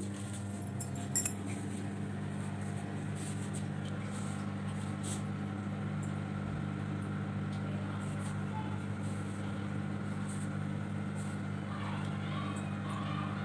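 Microwave oven running with a steady low electrical hum, a cake baking inside. A couple of light clinks about a second in.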